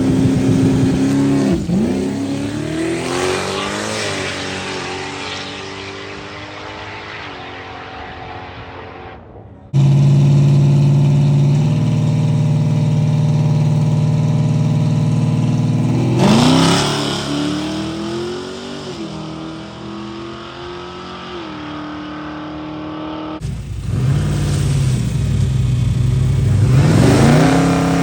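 Drag cars launching and accelerating hard down the strip. Each engine note climbs, drops back at the gear shifts and fades as the car pulls away. About ten seconds in, a loud close engine holds a steady note for several seconds before it too revs up through its gears. Another launch starts near the end.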